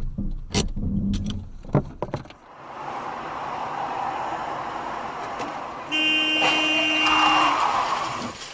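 A few sharp knocks and bangs in the first two seconds, then steady road noise, and a car horn sounding one steady blast for about a second and a half around six seconds in.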